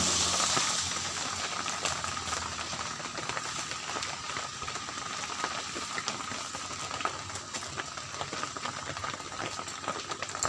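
Rain falling: a steady hiss with many small ticks of drops landing.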